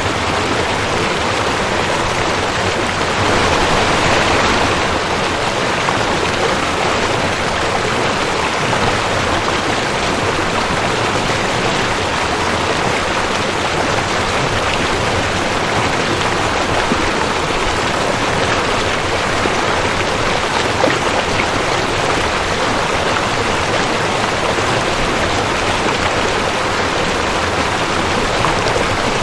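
Rushing creek water, a steady dense splashing and rushing with a slight swell about four seconds in.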